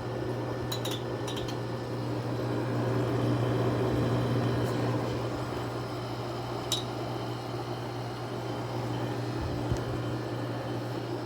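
Haier 5,200 BTU window air conditioner running on cool: a steady low compressor hum under the fan's airflow, with a few light clicks about a second in and again midway.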